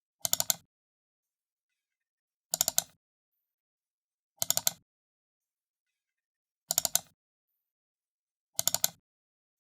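Computer mouse button double-clicked, five times about two seconds apart, each double-click a quick cluster of sharp plastic clicks from press and release, with silence between.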